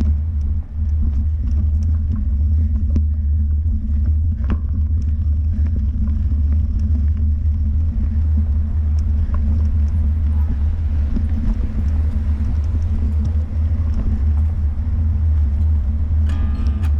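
A loud, steady low rumble with a few faint clicks.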